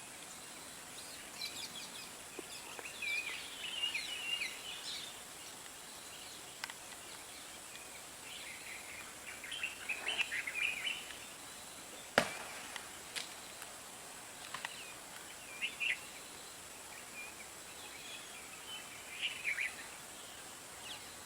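Birds chirping in short bursts of calls over a steady background hiss, with one sharp click about twelve seconds in.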